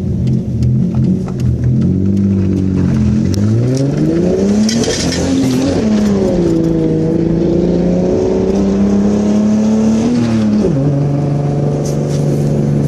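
Ford XH's 4-litre six-cylinder engine revving. The pitch climbs to a peak about five seconds in, falls back and holds steady, then drops to a lower, even idle near the end.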